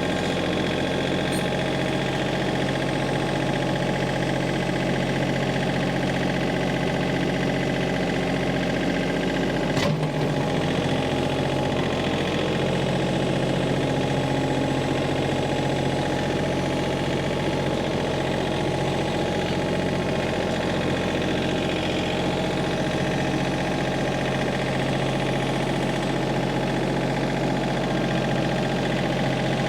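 Tractor engine running steadily at a constant speed, with one sharp knock about ten seconds in.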